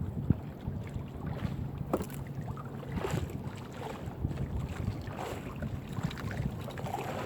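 Small fishing boat's engine running steadily at idle, with scattered knocks as a crab gillnet is hauled in over the side.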